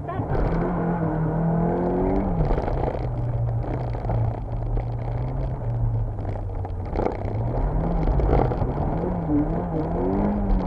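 Toyota AE86's 4A-GE twin-cam four-cylinder engine, heard from inside the cabin, launching hard from a standing start. The revs climb for about two seconds, drop sharply at an upshift, then climb again. Near the end the revs swing up and down several times as the throttle is worked on and off.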